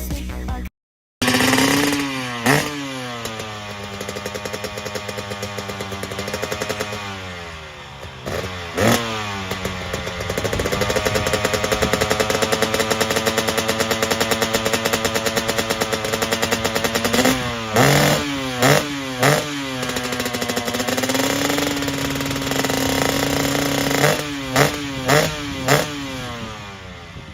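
Motocross bike engine running hard, its pitch sliding down and climbing again as the throttle is closed and opened. There are sharp throttle blips: three in quick succession around the middle and four more near the end. The sound cuts out completely for a moment about a second in.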